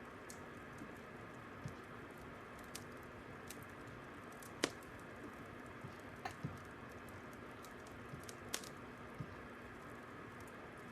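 Fire crackling: a quiet steady hiss with irregular sharp pops and snaps, the loudest about four and a half seconds in.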